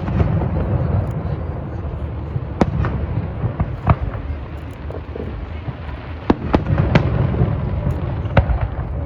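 Fireworks display: shells bursting in sharp bangs at irregular intervals, about half a dozen in all, over a continuous low rumble.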